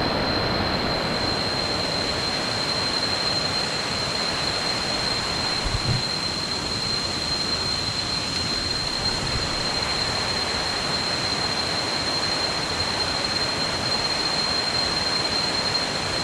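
Waterfall rushing steadily, with a thin, steady high-pitched tone over the top.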